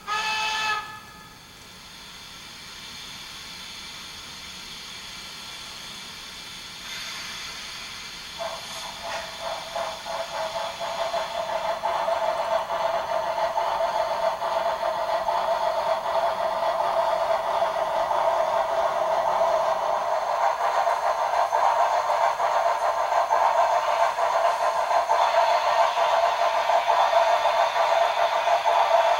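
Steam sounds from the LokSound 5 sound decoder in an HO scale Shay locomotive model: a short whistle toot at the start, then a steady steam hiss. From about eight seconds in, the engine's chuffs start up and quicken with a steady whine, growing louder as the locomotive gets under way.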